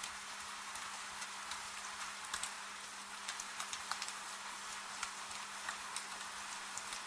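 Gentle rain: a steady soft hiss with scattered drops ticking at irregular intervals, over a faint steady low hum.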